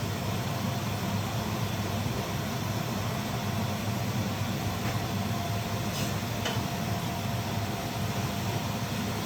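A steady low mechanical hum with a faint hiss over it, and a few faint clicks about five to six and a half seconds in.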